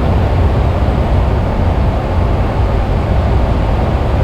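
Cessna 172's piston engine and propeller running with a steady drone on final approach, the wind and engine noise filling the cabin.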